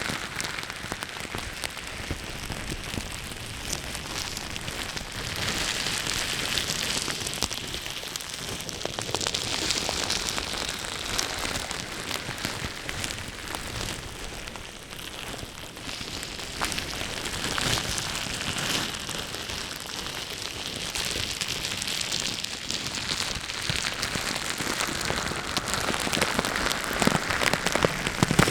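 Close-miked ASMR trigger sounds: a dense, crackly scratching texture of fine clicks that swells and fades every few seconds.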